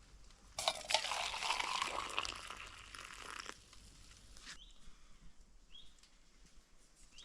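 A crunching, crinkling noise lasting about three seconds, then a few faint short chirps.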